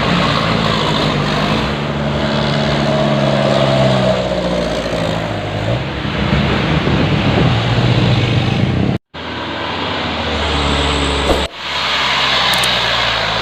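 Dump truck diesel engines running steadily under load, with the sound cutting out briefly about nine seconds in and changing abruptly again a couple of seconds later.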